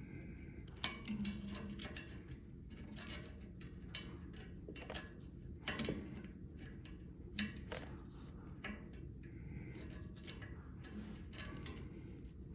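Irregular light clicks, taps and short scraping or rubbing sounds of small hard objects being handled, with a sharper click about a second in.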